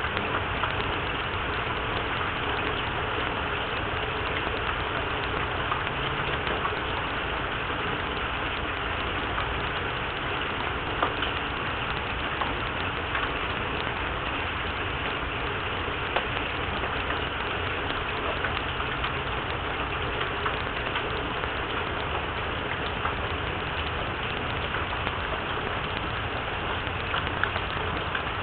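Steady rain falling, with scattered single drops ticking louder.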